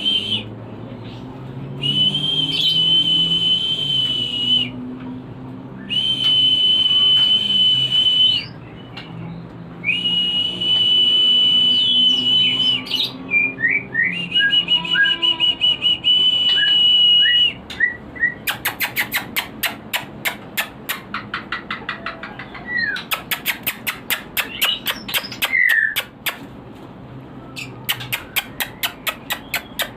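Birdsong lure for white-rumped shamas: long, steady high whistles of about two seconds each, repeated five times, then rapid runs of sharp clicks with short down-slurred notes. The sound is played to stir breeding shamas into mating condition.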